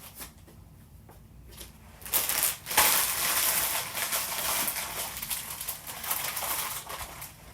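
Rustling and crinkling of packaging as items are handled and moved, starting about two seconds in and running on irregularly until near the end.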